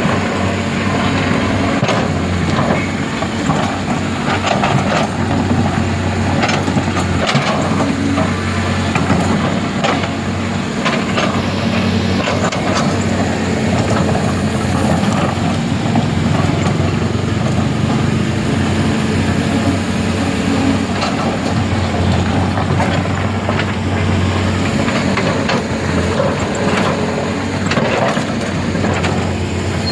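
Heavy diesel engine running steadily, with scattered knocks and clatter on top.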